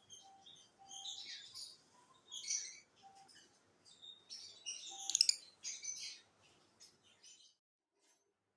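Fischer's lovebirds chirping and squeaking in quick, high clusters. The loudest burst comes about five seconds in, and the chatter stops a little after seven seconds.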